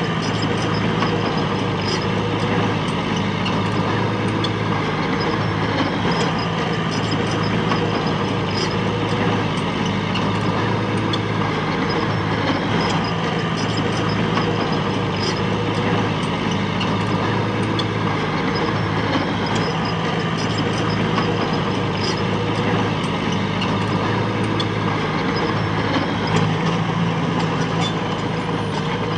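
Heavy diesel machinery engine running steadily throughout, with a light, regular clicking over it.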